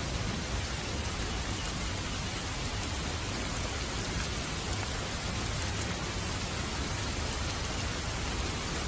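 Steady heavy rain: an even, unbroken hiss of falling rain with a low rumble beneath it.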